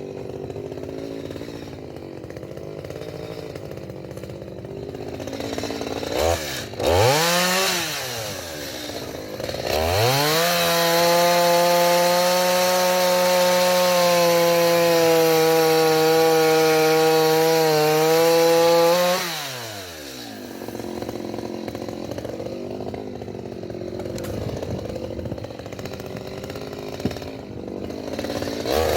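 Two-stroke gasoline chainsaw idling, revved briefly about six seconds in, then held at full throttle for about nine seconds, cutting through oak firewood logs, before dropping back to idle; it revs up again at the very end.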